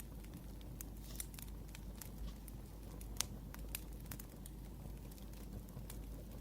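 Wood fire crackling: irregular sharp pops over a low steady rumble, the loudest pop about three seconds in.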